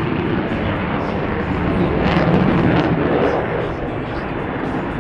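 Lockheed Martin F-35A Lightning II jet, its single F135 turbofan making a loud, rumbling noise that swells to a peak about two seconds in and eases off as the jet passes.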